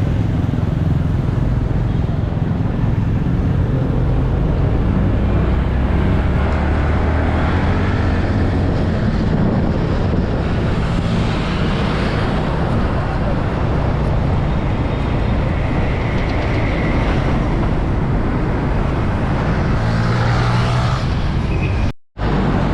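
Motorcycle running at road speed in traffic: a steady engine note under loud, continuous road and rushing-air noise.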